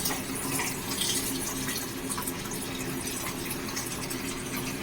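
Chili chicken gravy sizzling in a pan as it is stirred: a steady hiss with scattered small pops.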